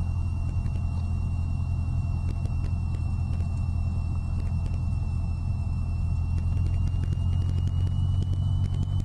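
Cessna 172's piston engine and propeller droning steadily, heard from inside the cabin in approach flight. A faint, thin high whine runs over it and rises slightly in pitch near the end.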